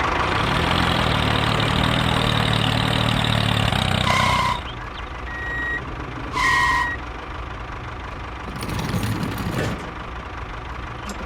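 Small engine of a miniature tractor running loudly for about four seconds, then settling to a lower, quieter run. Two short beeps sound over it, about four and six and a half seconds in.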